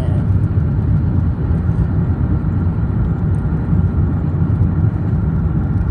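Car driving at highway speed, heard inside the cabin: a steady low rumble of road and engine noise.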